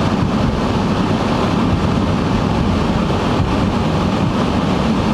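Steady, loud rumble of a car moving, heard from inside the cabin: road and tyre noise with the engine underneath.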